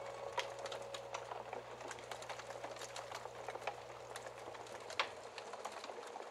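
Wood fire crackling steadily in a fireplace, with irregular small snaps and a couple of louder pops, one near the start and one about five seconds in.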